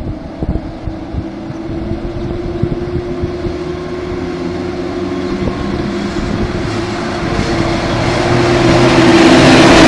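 PKP class EP07 electric locomotive EU07-015 hauling a passenger train, approaching and passing close by. A steady hum grows louder throughout, and rail and wheel noise swells over the last few seconds as the locomotive arrives.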